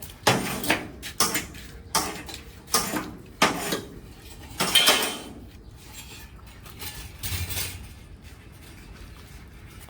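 Hard objects clattering together in a run of sharp knocks, roughly one every half second to a second, for about five seconds, then quieter.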